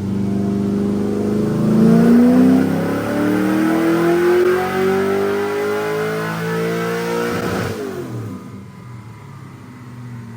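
LS3 6.2-litre V8 with a stage 3 cam making a full-throttle dyno pull. The engine holds steady, then the revs climb steadily for about six seconds. Near the end the throttle is shut and the revs fall sharply to a lower, quieter running.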